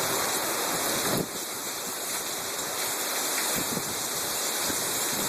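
Heavy thunderstorm downpour, rain hissing steadily, dipping slightly in level about a second in.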